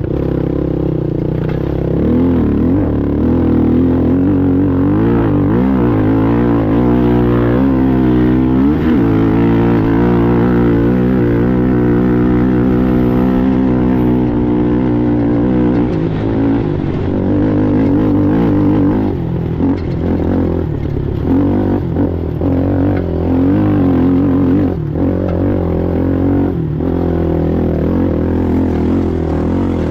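Racing ATV engine running hard, its pitch rising and falling with the throttle, and dipping briefly several times in the second half.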